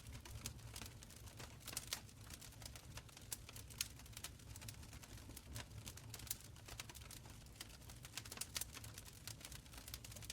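Wood fire burning in a stone fireplace, crackling with irregular small pops and snaps over a faint low rumble.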